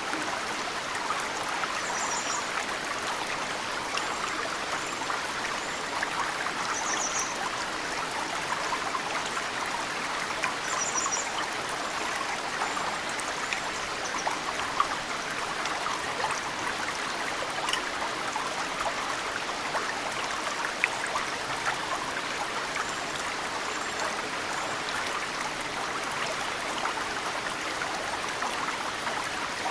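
Mountain stream running steadily, with snowmelt dripping into the water as scattered sharp drips. A small bird chirps briefly a few times in the first half.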